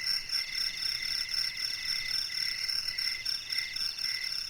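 Night-time forest chorus of insects and frogs: steady high trilling at several pitches, pulsing in an even rhythm.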